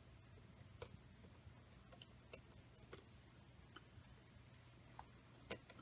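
Near silence: a faint steady low hum with scattered small sharp clicks, the light clicks of small metal engine parts being handled and adjusted by hand.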